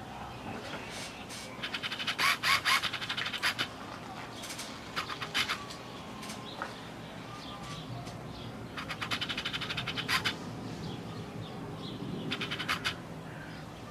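Birds outside chirping in four short bursts of rapid trills, over a low steady background hum.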